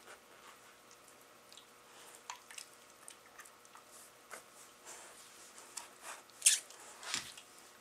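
Labrador retrievers and a Rottweiler puppy playing: irregular short mouthing and snuffling noises that come thicker in the second half, with the loudest, sharpest one a little after six seconds in.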